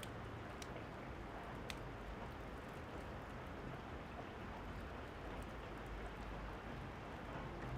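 Steady rain falling, with a few sharp pops of a crackling wood fire, most clearly about half a second and near two seconds in.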